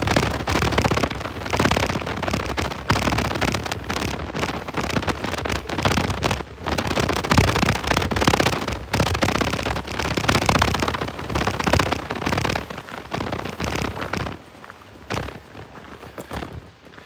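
Dog scooter rattling and rolling over a bumpy trail, a dense noisy clatter that drops noticeably quieter for the last few seconds.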